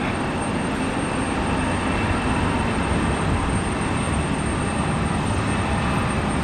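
Jet airliner engines running steadily, an even rumble with a faint high whine, without rising or falling.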